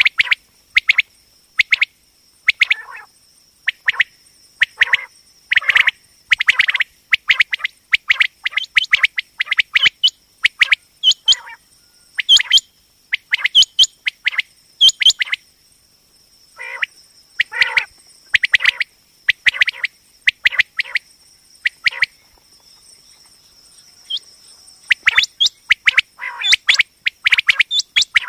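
Common quail calling: short, sharp notes in quick clusters of two or three, repeated about once a second with brief pauses, a quail call used to lure quail for hunting and trapping.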